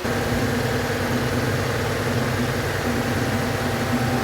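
An engine idling steadily, cutting in abruptly at full level.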